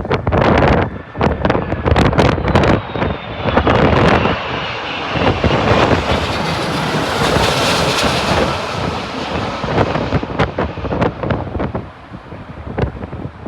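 Jet airliner passing overhead on its landing approach: the engine noise swells to a peak about eight seconds in and then fades, with a faint whine that falls in pitch. Gusty wind buffets the microphone throughout.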